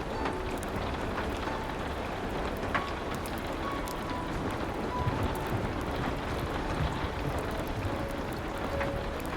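Steady rain, with scattered sharp crackles of a wood fire and a few soft, sparse piano notes.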